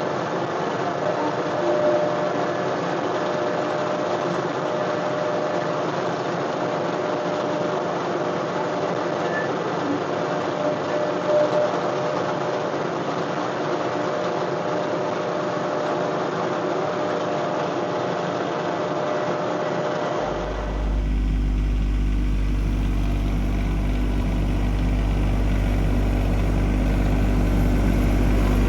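John Deere 1025R compact tractor's three-cylinder diesel engine running steadily. About 20 seconds in, the sound changes abruptly to a deeper, heavier hum.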